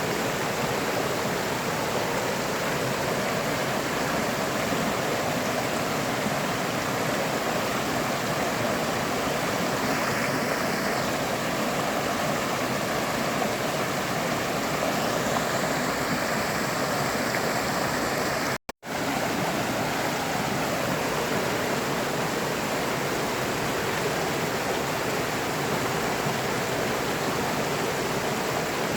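A river or stream flowing steadily, a dense even rush of water. The sound cuts out for a split second about two-thirds of the way through, then resumes unchanged.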